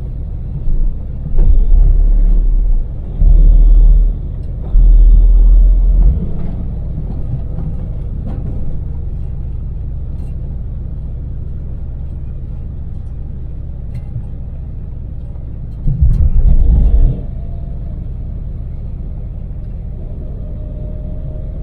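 Daewoo Damas minivan's small three-cylinder LPG engine and road noise while driving, a steady low rumble. Loud low booming surges break in three times in the first six seconds and once more around sixteen seconds.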